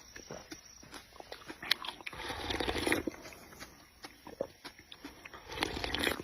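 Close-miked chewing and biting of food, with wet mouth clicks and smacks and two longer stretches of noisy chewing, one about two seconds in and one near the end.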